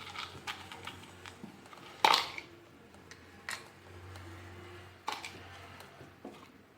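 Hard plastic parts of a vacuum cleaner being handled and fitted together: scattered clicks and knocks, the loudest a sharp knock about two seconds in.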